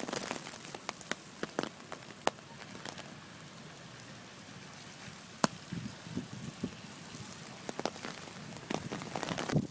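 Wet snow falling hard and pattering on surfaces: a steady hiss with irregular sharp ticks and drips, and a few duller knocks near the middle and the end.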